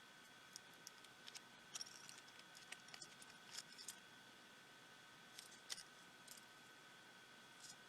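Faint, light clicks and ticks of small hand tools and tiny parts being handled during disassembly of a pico projector, coming in small scattered clusters, over a faint steady high-pitched hum.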